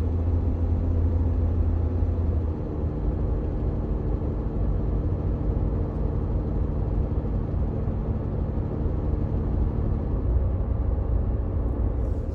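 Toyota 4Runner engine noise heard under the dashboard: a steady low drone made of several tones. Its pitch shifts about two and a half seconds in, when the deepest hum drops away, and shifts again near the end.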